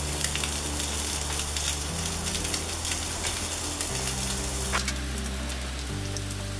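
Sausage-meat balls frying in hot oil in a cast iron skillet over charcoal: a steady sizzle with small crackles and pops.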